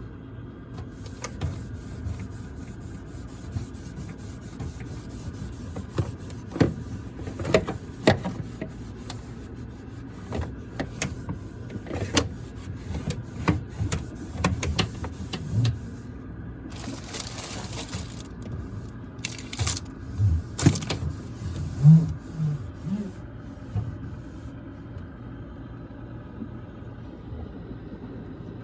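Scattered clicks, knocks and clatter of items and shelf parts being handled while a refrigerator's middle shelf is cleaned, over a steady low hum, with a brief rushing hiss a little past halfway.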